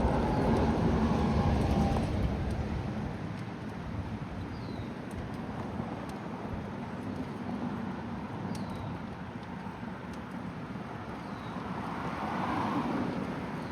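A car passing close by, loudest in the first two seconds and then fading, over steady outdoor road noise.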